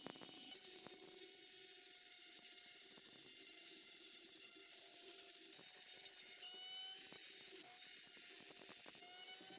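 A small electric tool motor running steadily with a high hiss, its pitch wavering briefly twice.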